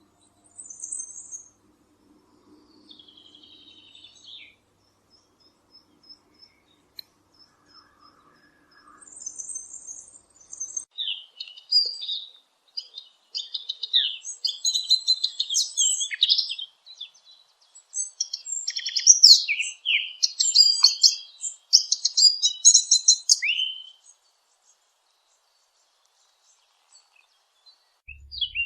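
Small songbirds chirping and singing in short, high, rapid phrases. A few scattered calls come first, then a dense stretch of quick chirps and trills runs for about twelve seconds and stops a few seconds before the end.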